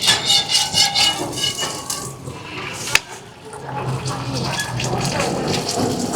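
Rolex being cooked at a street-food stall: metal utensils clink and ring against the cookware for about two seconds. A sharp clack about three seconds in is followed by a steady sizzling hiss of frying on the hot pan.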